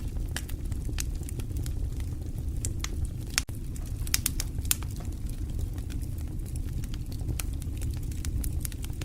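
Wood fire crackling: irregular sharp pops and snaps over a steady low rumble, with a brief dropout about three and a half seconds in.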